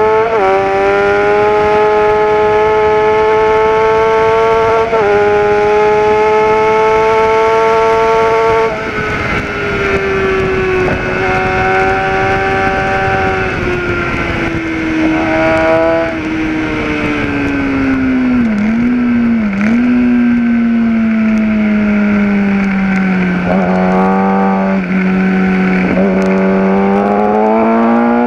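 Kawasaki ZX-10R inline-four sportbike engine at full throttle, its note climbing and snapping down at two quick upshifts, then easing off so the pitch falls slowly through a long stretch with two brief dips about halfway through, before it picks up and climbs again near the end. Wind rush runs under the engine throughout.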